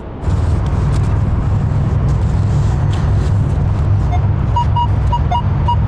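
Minelab Equinox 800 metal detector giving short, repeated target beeps at two pitches, starting about four seconds in, over a loud, steady low rumble.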